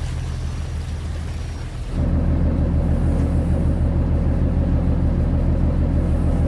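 Cargo boat's diesel engine running steadily with a low, even drone, which jumps abruptly louder about two seconds in.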